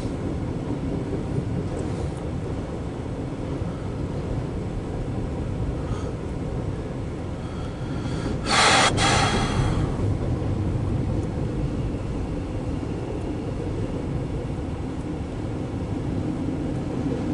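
CSX freight train of empty autorack cars running past with a steady low rumble. About halfway through there is one brief, loud burst of noise.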